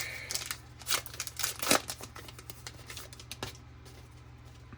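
A trading-card pack's wrapper being torn open and crinkled, a run of short crackling rips over the first three seconds or so, loudest a little under two seconds in, then only faint handling.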